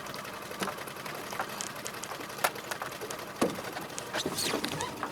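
Small boat motor idling steadily, with a few short, sharp knocks scattered through.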